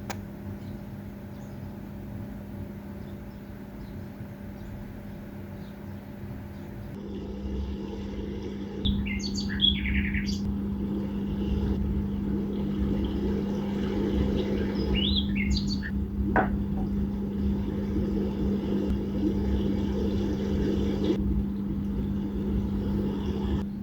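Birds chirping in two short flurries of quick, high calls, over a steady low hum and a low rumble that grows louder partway through.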